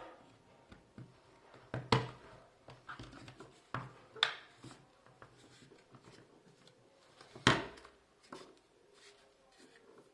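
Hand handling of small hard parts on a work surface: scraping and rubbing with several sharp knocks and clicks, the loudest about two seconds in and again past the middle.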